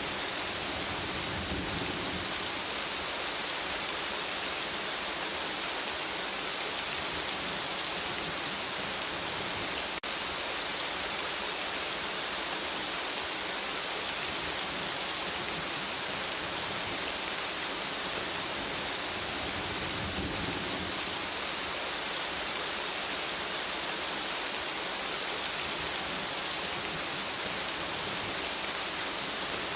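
Steady forest rain, an even hiss of many drops falling on foliage. A low rumble swells near the start and again about two-thirds of the way through.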